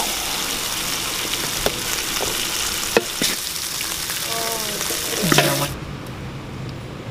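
Chili sambal with petai beans sizzling in a wide aluminium wok while a metal spatula scrapes and taps against it, scooping the sambal out. About six seconds in the sizzling cuts off suddenly, leaving a low steady hum.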